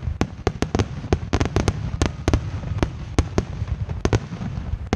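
Aerial firework shells bursting in a rapid grand-finale barrage: sharp bangs about four a second at uneven spacing over a continuous low rumble.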